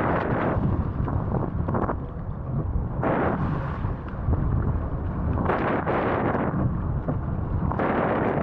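Wind buffeting the microphone while wing foiling over open water: a steady low rumble with louder rushing surges about every two to three seconds.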